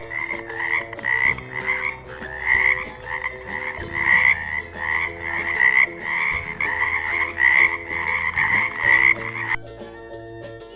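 A frog croaking over and over, about one and a half croaks a second, stopping shortly before the end.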